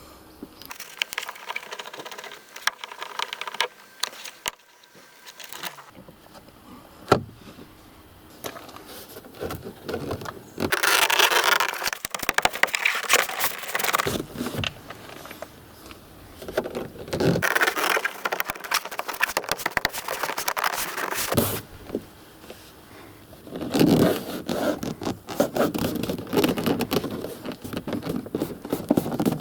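Hands and tools working on car interior parts: scattered clicks, then three longer spells of scraping and rustling, the middle one about halfway through and the last near the end.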